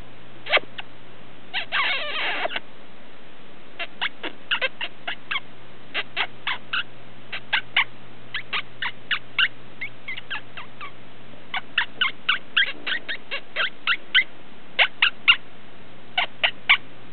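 Quaker parrot making a long run of short, sharp chirps and clicking calls, with one longer squawk about two seconds in.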